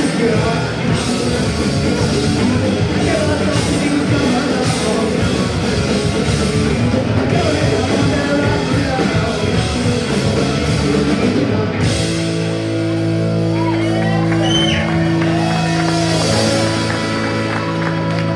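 Punk rock band playing live with distorted guitars, drums and singing. About twelve seconds in, the dense playing stops and a held chord rings out steadily until near the end.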